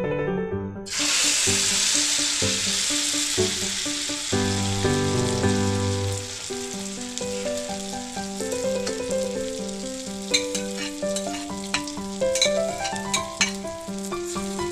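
Beaten egg and eggplant mixture hitting hot oil in an aluminium wok: a loud sizzle starts suddenly about a second in and settles into steady frying, with scattered crackling pops in the second half. Keyboard background music plays underneath.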